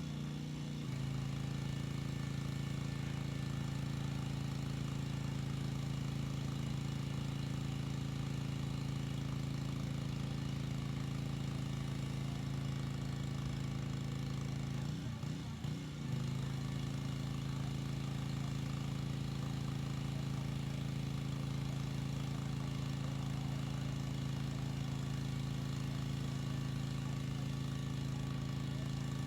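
Gas pressure washer engine running steadily, its note dipping and wavering briefly about halfway through.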